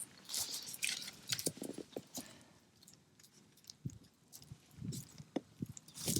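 Close-up eating sounds: irregular bites and chewing with small crunches, pausing for a second or so partway through.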